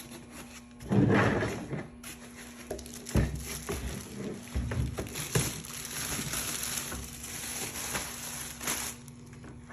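A water heater's packaging being torn open and handled: crinkling, rustling plastic and cardboard with many small crackles, after a louder knock about a second in.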